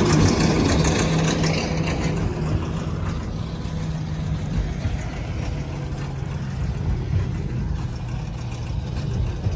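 Farm tractor engine running steadily under load, with mechanical rattle from the machinery that is loudest in the first couple of seconds.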